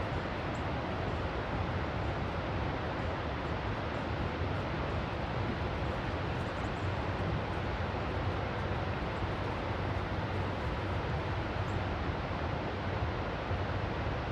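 Steady roar of the falling water of Niagara Falls, with a low steady hum underneath.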